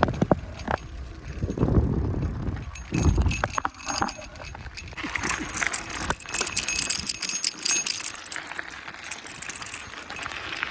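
Bicycle on the move: wind buffets the microphone for the first three seconds or so, then light rattling and clicking from the bike.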